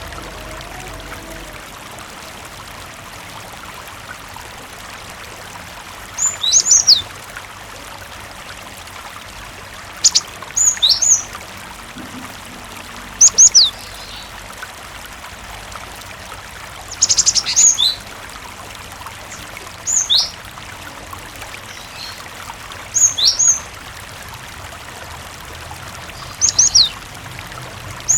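Cinereous tit (gelatik batu) calling in short phrases of quick, high, sharp notes, repeated every three or four seconds after the first few seconds, over a steady background of running water.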